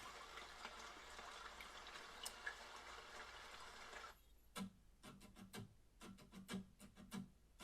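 Faint hiss, then from about four and a half seconds in a run of soft, quick ticks: the quiet opening of a music video's soundtrack.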